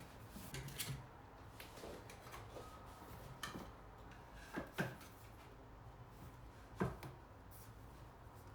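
Scattered light knocks and clicks of small objects being handled and set down. The loudest come as a pair just before five seconds in and one near seven seconds.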